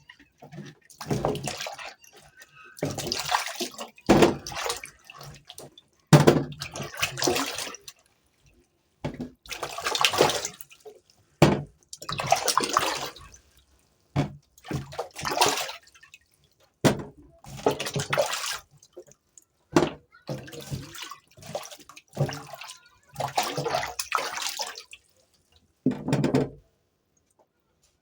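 Water running and splashing at a sink in about fifteen short bursts, a second or two each, that stop abruptly with silence between them.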